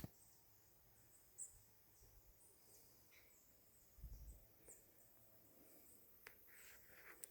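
Near silence: faint outdoor ambience with a few scattered faint high chirps from birds or insects, and a soft low thump about four seconds in.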